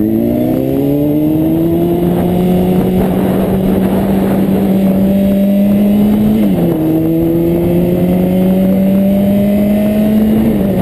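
2005 Honda CBR600RR's inline-four engine pulling under acceleration, its pitch climbing steadily. The pitch drops sharply with an upshift about two-thirds of the way through, climbs again, and drops with another upshift near the end. Wind and road noise rush underneath.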